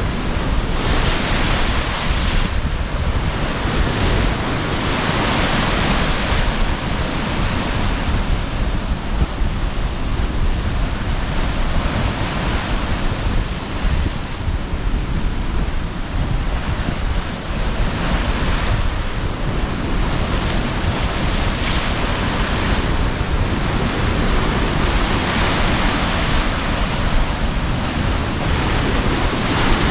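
Sea surf breaking steadily on the shore under strong wind, with wind rumbling on the microphone; the hiss of the waves swells and fades every few seconds.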